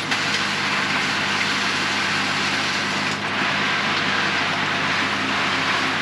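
Water spraying steadily from a newly fitted RV shower head running at full pressure, with a faint low steady hum underneath.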